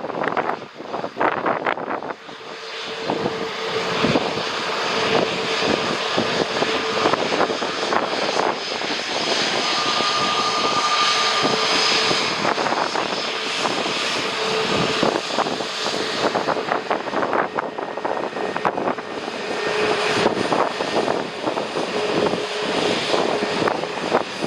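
Jet airliner's engines running as it passes on landing approach, a steady noise that builds about two seconds in and then holds, with a faint whine through it. Gusty wind buffets the microphone throughout.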